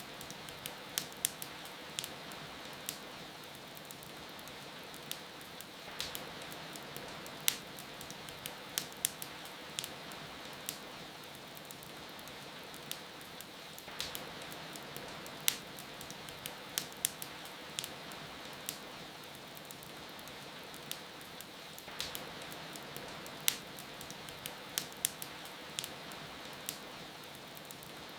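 Wood fire crackling with frequent sharp, irregular pops over a steady hiss of rain.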